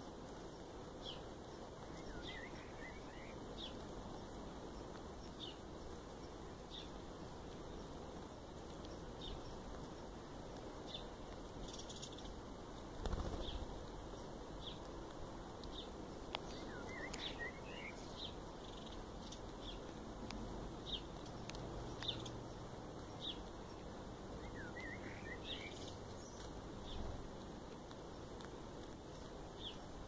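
Birds calling: short, high chirps repeating about once a second, with a few clusters of quick downward-sliding calls, over a steady faint hiss. A single low thump comes a little before the middle.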